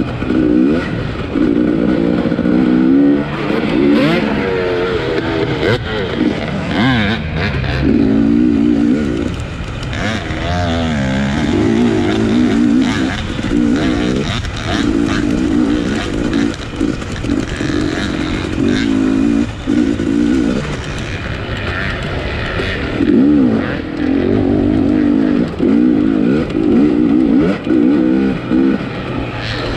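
250cc off-road race motorcycle's engine heard from on the bike, revving up and dropping back over and over as the throttle opens and shuts, with short dips between the pulls and scattered knocks.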